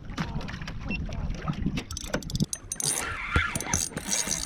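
Water sloshing against a sailing kayak's hull with a low rumble of wind on the microphone, broken by many short knocks and clicks.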